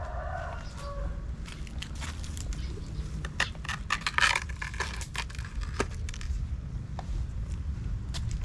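Crackling and scraping as the charred salt crust and skin are broken and peeled off a salt-grilled snakehead fish, with the sharpest cluster of crackles near the middle, over a low steady rumble.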